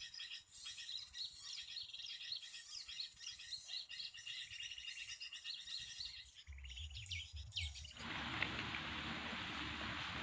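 Small songbirds chirping and twittering rapidly in a dense, overlapping chorus. About eight seconds in, the chirping cuts off abruptly and gives way to a steady hiss.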